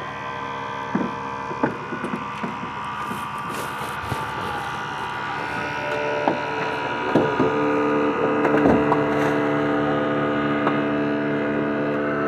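Hydraulic rescue tool power unit running steadily, its drone growing stronger about six seconds in as the tools take load, with scattered sharp cracks and snaps from the car body being cut.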